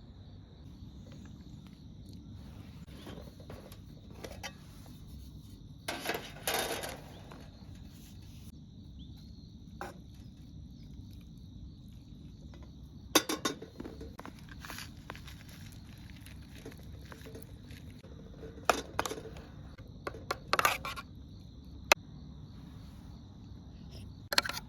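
Camp cookware and eating utensils clinking and scraping against a bowl and pot about half a dozen times. A steady high insect chirring runs beneath.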